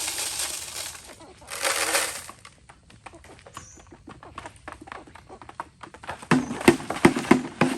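Two bursts of rustling noise, then scattered small clicks, then a quick run of short clucks from free-range chickens near the end.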